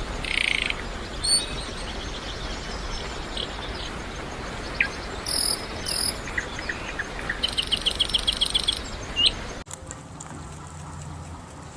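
High-pitched animal chirps and short rising calls over a steady outdoor hiss, with a rapid trill of about eight pulses a second lasting a second and a half near the end.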